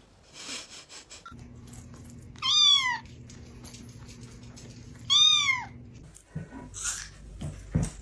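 Cat meowing loudly twice, each meow rising then falling in pitch, about two and a half seconds apart, over a steady low hum. A few short knocks near the end.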